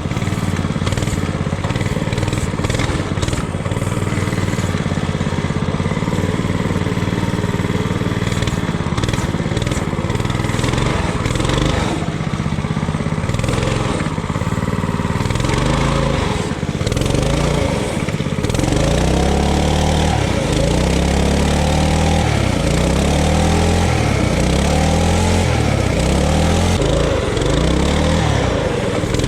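Coleman RT200 mini bike's small single-cylinder engine running under load while the bike is pushed through deep mud and water. From about two-thirds of the way in, it revs up and down over and over, roughly once every second or so.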